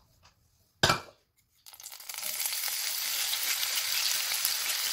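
A single sharp knock about a second in. After a short pause, hot ghee starts sizzling steadily as drained, cooked chana dal is tipped from a strainer into the pan.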